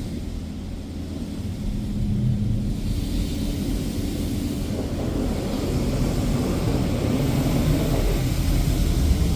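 Washworld Razor touchless car wash spraying water onto the car, heard from inside the cabin as a steady low rumble with a rushing spray hiss that swells from about three seconds in.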